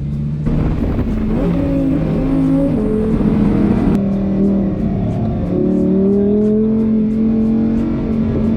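Lamborghini Huracán's V10 engine under way on track: the pitch swings up and down for the first few seconds, then climbs steadily as the car accelerates.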